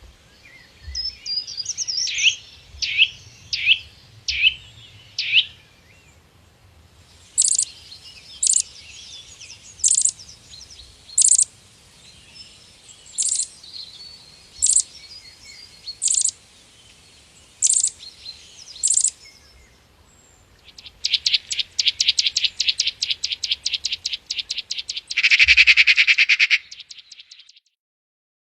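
Songbirds calling. First comes a short run of five falling whistled notes, then single sharp notes about every second and a half. Near the end a fast trill runs into a louder buzzy phrase.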